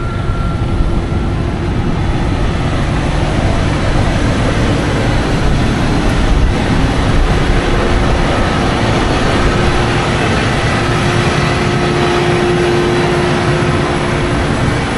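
A heavy diesel engine running steadily: a constant, loud drone with a faint steady hum over it.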